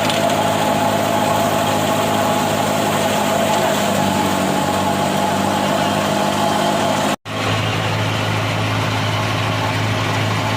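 Heavy farm machine's diesel engine running steadily, most likely a combine harvester or a tractor pulling it. About seven seconds in the sound cuts out for an instant and comes back with a lower, steadier hum.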